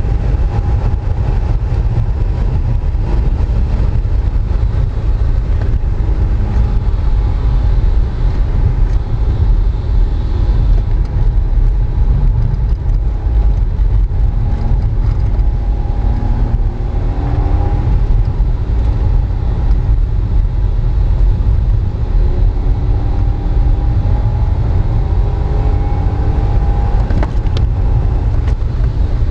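Honda S660's small turbocharged three-cylinder engine heard on board during hard driving, its pitch rising and falling with the throttle, under a heavy low rumble of road noise.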